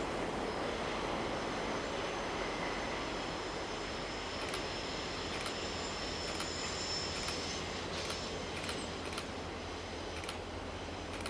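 Work train of ballast cars rolling past: a steady rumble of wheels on rail with a faint high wheel squeal, joined about halfway through by a run of clicks as the wheels cross rail joints.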